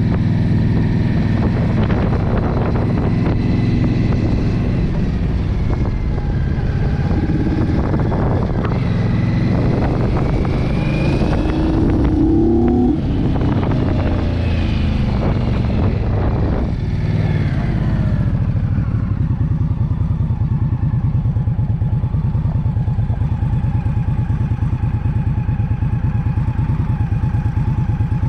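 Motorcycle engine running under way on a ride. Around the middle the engine note rises and falls as the bike changes speed, and over the last third it settles into a steady drone.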